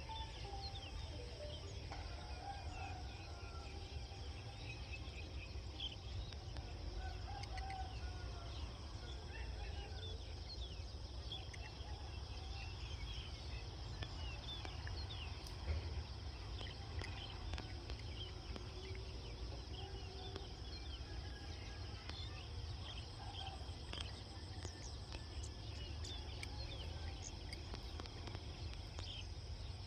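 Rural outdoor ambience: many short bird calls and chirps scattered throughout, over a steady low rumble.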